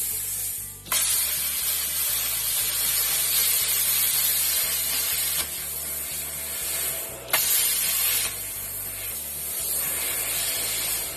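Cutmaster 52 plasma cutter cutting through a metal burn barrel: a loud steady hiss of the air-plasma jet. It switches on sharply about a second in and breaks off briefly twice, after about seven and eight seconds, as the arc stops and restarts.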